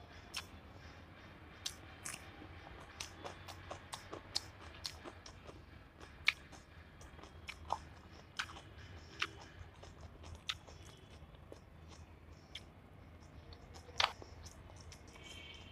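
Close-up eating sounds: a person chewing rice and chicken curry with raw vegetables, with many short wet clicks and crunches, the loudest about six seconds in and near the end.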